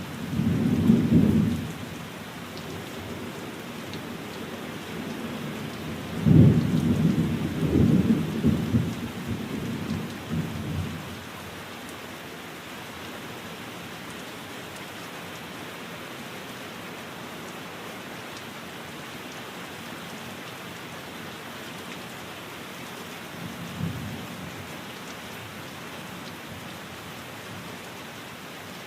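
Steady rain falling, with rolls of thunder: a short rumble at the start, a louder, longer rolling rumble about six seconds in that lasts several seconds, and a fainter one near the end.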